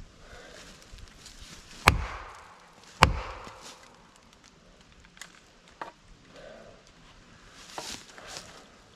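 Two hard blows on wood about a second apart, then a few light knocks: a felling wedge being hammered into the cut of a pine that is sitting back on the saw.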